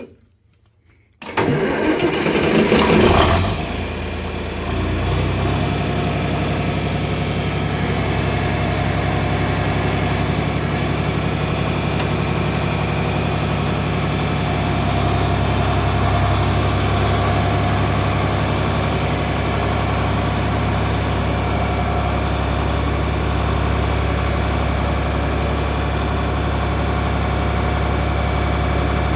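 John Deere tractor engine cranked over by the starter about a second in, catching within a couple of seconds and settling into a steady idle.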